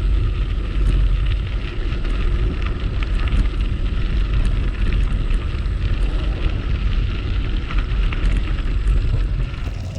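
Wind buffeting the microphone: a steady low rumble with faint scattered crackles.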